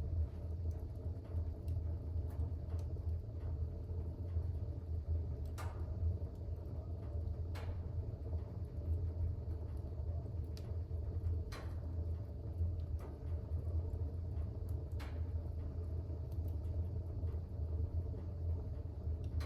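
Fire burning in a fireplace: a steady low rumble of the flames with sharp crackles and pops every few seconds.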